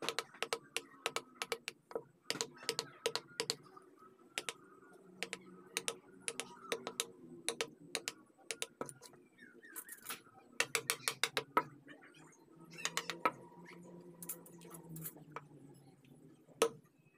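Carving chisel tapped into wood in quick runs of sharp taps, several a second, with short pauses between the runs.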